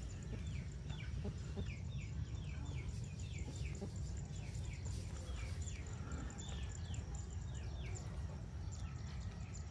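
Small birds chirping: short, high, falling chirps repeated in runs of two or three a second, over a faint low rumble.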